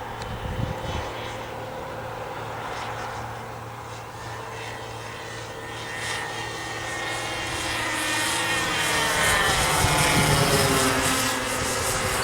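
Twin Irvine 53 two-stroke glow engines with APC 10x7 propellers running on a radio-controlled delta in flight, growing louder to a close pass about ten seconds in, the pitch sweeping as it goes by.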